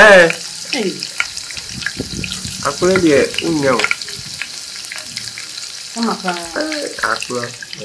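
Food frying in a pot with a steady sizzle and crackle while it is being stirred.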